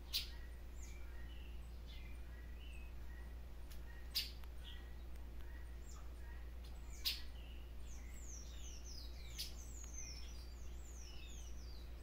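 Small birds chirping, with four brief sharp chips spread through, and in the second half a rapid run of high, falling twitters.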